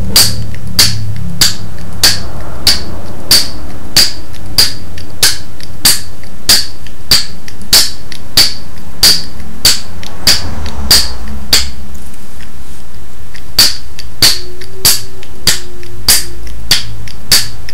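Wooden balero being played: the barrel is flicked up and caught on its spike again and again, each catch a sharp wooden click, about one every 0.6 seconds. The run pauses for about two seconds partway through, then carries on at the same pace.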